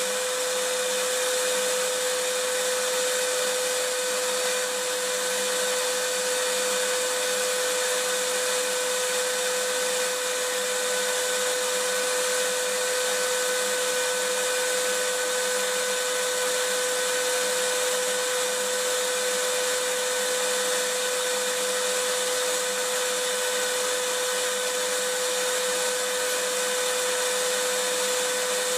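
Vacuum cleaner running steadily: a constant whooshing hiss of its motor and airflow, with a steady hum in it.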